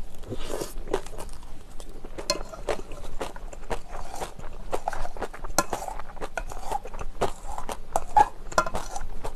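Close-miked chewing with irregular wet clicks and crackles as a mouthful of bibimbap mixed with salted herring roe is eaten, with a spoon scraping and tapping in a stainless steel bowl.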